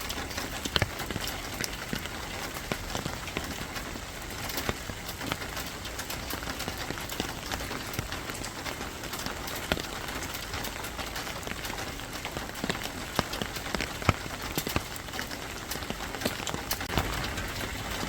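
Steady rain falling, an even hiss broken by many sharp, irregular drop hits on a surface.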